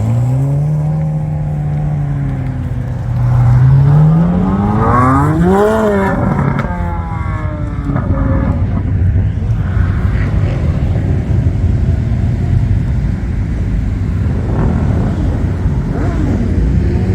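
Car engine revved once, its pitch climbing steadily and peaking about six seconds in, then dropping quickly back to a low, steady idle rumble.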